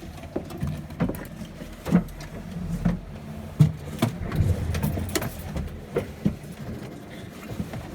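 Scattered knocks and bumps of a person moving and climbing up into a cramped aircraft seat, over a low rumble.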